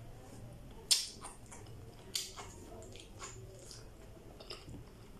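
Biting into and chewing okra pods: two sharp bites about a second and two seconds in, with softer chewing and mouth clicks between.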